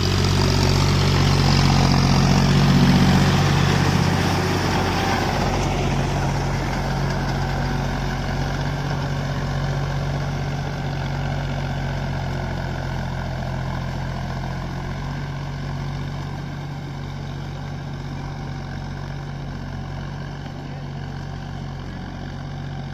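John Deere 5050D tractor's three-cylinder diesel engine running at a steady speed, loudest in the first few seconds and then gradually growing fainter.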